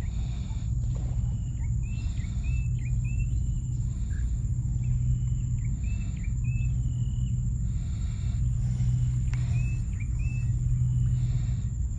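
Outdoor ambience: a bird calling in short repeated chirps, in little runs, over a steady low rumble and a thin steady high whine.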